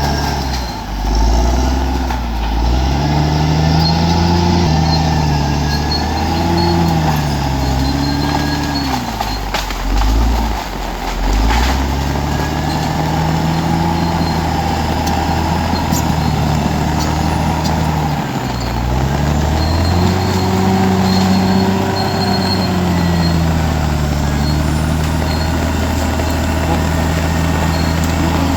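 Large bulldozer's diesel engine working under load, its note rising and falling again and again as the revs change, with deep dips about ten and eighteen seconds in.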